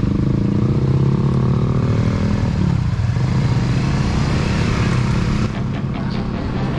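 CFMoto NK 250's single-cylinder engine through an Orion full-system aftermarket exhaust, revving up under acceleration with the pitch rising, breaking off about three seconds in as at a gear change, then running on rougher, dropping a little in level near the end as the throttle eases.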